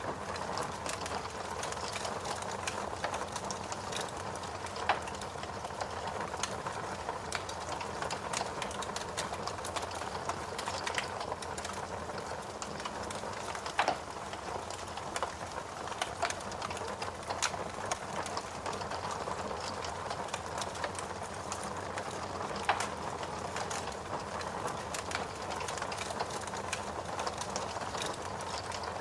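Steady rain mixed with a wood fire crackling in a fireplace: a constant hiss of rain under frequent small crackles, with three louder pops of burning wood spread through.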